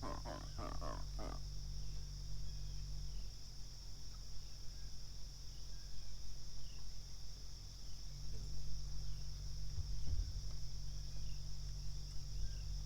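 Steady high buzz of an insect chorus, with a low steady hum underneath that fades about three seconds in and comes back about eight seconds in.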